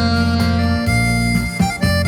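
Instrumental backing-track music with a saxophone melody line playing held notes over steady bass and chords.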